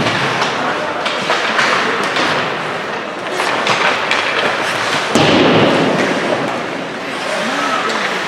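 Ice hockey game action in an arena: repeated thuds and knocks of the puck and players against the boards over a steady haze of crowd noise, with the loudest heavy thump about five seconds in.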